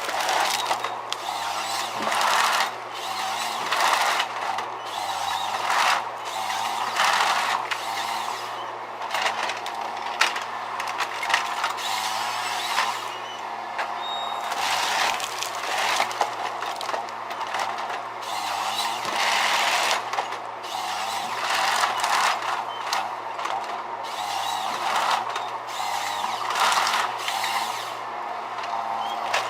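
Heavy tree-felling machinery at work: an engine running steadily, its note dipping briefly now and then, under repeated surges of harsh cutting and mechanical noise every second or two.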